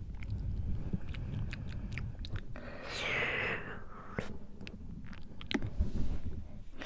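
Close-mic wet mouth sounds: a run of sharp tongue and lip clicks, with a breathy whispered exhale about three seconds in, over a low rumble of breath on the microphone.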